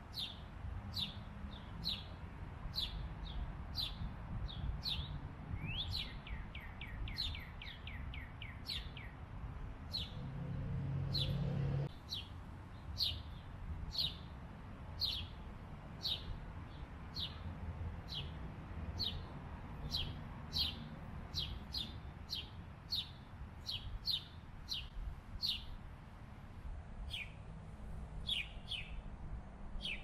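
Bird calls: a long, evenly spaced series of short, sharp chip notes, about one and a half a second, with a quick run of about eight falling notes a few seconds in. A low hum underneath swells and stops abruptly about twelve seconds in.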